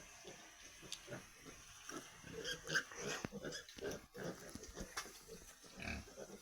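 Pigs grunting in short, rapid grunts, louder for a moment about two and a half to three seconds in.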